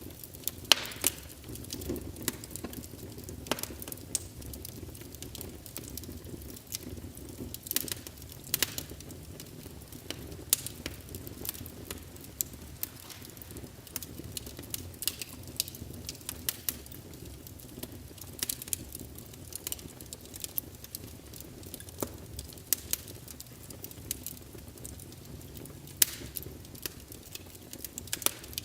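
Wood fire crackling in a fireplace: a low steady rumble of flame with irregular sharp pops and snaps, a few of them louder.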